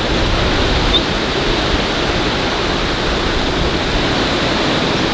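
Small waterfall rushing: a loud, steady, even rush of falling water.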